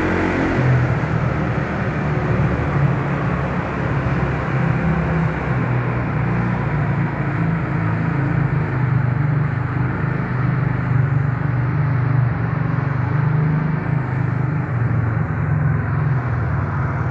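Yamaha Mio Soul scooter's single-cylinder engine running while riding, a steady hum mixed with wind and road noise.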